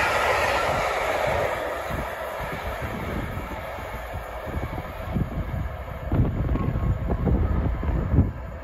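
SJ passenger train's coaches rolling away along the track, the wheel-on-rail noise fading over the first few seconds as the train recedes. In the second half, uneven low rumbling from wind buffeting the microphone.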